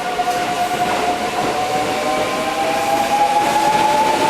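Kintetsu electric train running, its traction motors giving a steady whine that rises slowly in pitch as the train gathers speed, over the noise of the wheels on the rails.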